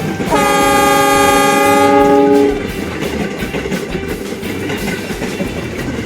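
Diesel locomotive horn sounding one chord blast of about two seconds, with a steady rail running rumble and clatter that carries on after it.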